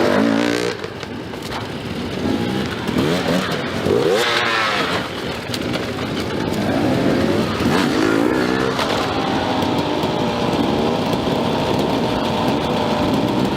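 Enduro dirt bike engines revving, the pitch climbing and dropping again and again with the throttle and gear changes; from about nine seconds in one engine holds a steadier high note.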